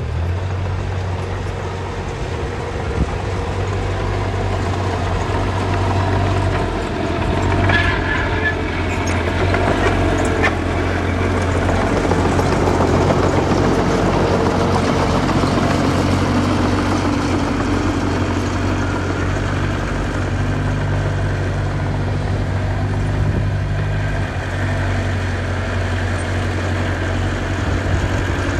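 Diesel engine of earthmoving machinery running steadily, its pitch shifting slightly with load, with a few short clanks about eight and ten seconds in.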